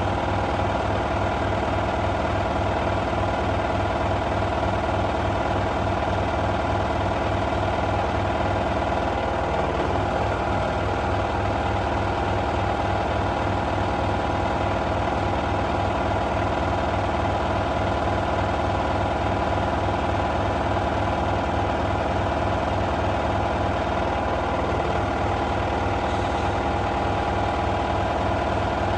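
LG F1222TD direct-drive washing machine spinning at full speed on its final spin: a steady hum and whine with a fast, fine rattle underneath, from a loose clasp on the machine.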